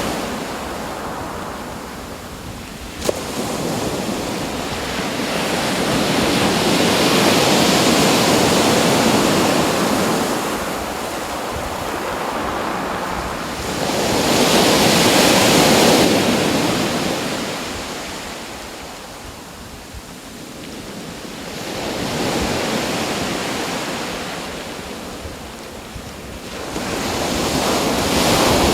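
Sea waves breaking and washing in, the rush swelling and falling away about every seven seconds.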